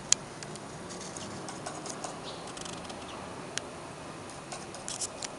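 Two sharp clicks at the start, then scattered light ticks and taps over a steady background hiss.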